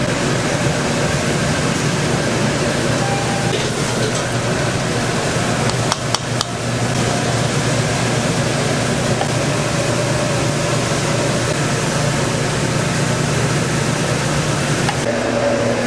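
Steady roar of a busy restaurant kitchen, with a few sharp metal clanks about six seconds in.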